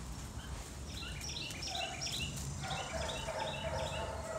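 Bird song: two fast runs of short, repeated high chirping notes, the first about a second in and the second around three seconds in, over a lower drawn-out call and steady outdoor background noise.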